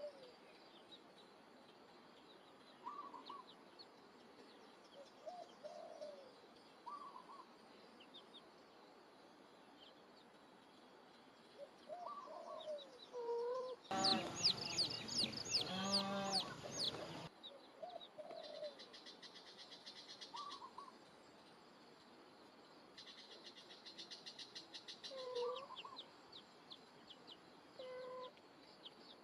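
Faint, short animal calls repeating every second or two, with a louder flurry of calls about halfway through and quick high chirping later on.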